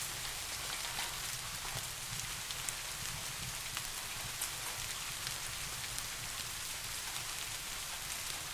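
Steady rain: an even hiss with scattered sharp drop ticks, over a low steady rumble.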